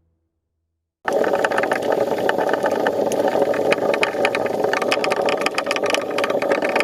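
Boat engine running steadily with a dense, rattly drone, setting in suddenly about a second in.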